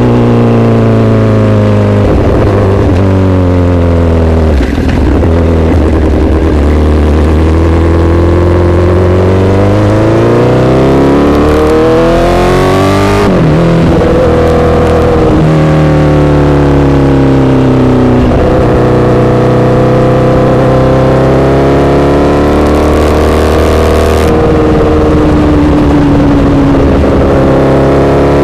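Honda CBR1000RR inline-four engine running loud through an SC-Project aftermarket exhaust, its pitch rising and falling several times as the bike speeds up and slows down.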